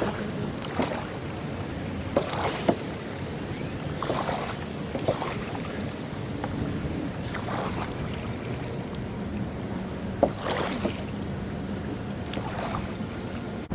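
Sounds of a canoe on the water: a steady background of wind and water noise, with scattered sharp knocks and clacks against the hull, about nine of them at uneven intervals.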